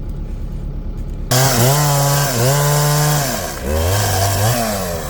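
Chainsaw opening up suddenly about a second in and cutting, its pitch holding, sagging and recovering as it works under load, over a low engine hum.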